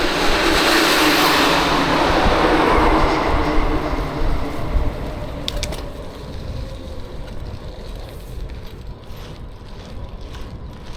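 A vehicle passing close by: its noise swells, with a tone dropping in pitch as it goes past, and fades away after about five seconds.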